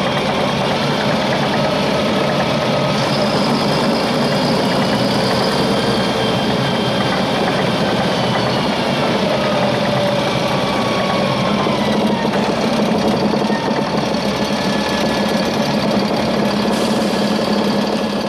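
Volvo 7700A articulated city bus's diesel engine running steadily, with faint whining tones above it that slowly rise and fall.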